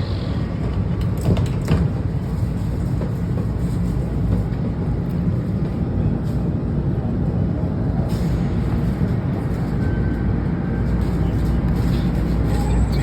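Washington Metro railcar running from a station, heard inside the car: a steady low rumble of wheels on rail with a few sharp clicks, growing slightly louder.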